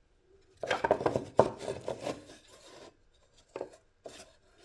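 Hands handling small parts and tools on a workbench: a run of quick scrapes, rubs and clicks for about two seconds, then two light taps.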